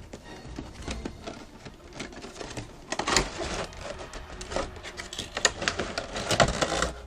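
Packaging being handled during an unboxing: a stream of crinkles, clicks and rustles, with louder bursts about three seconds in, around five and a half seconds and near the end.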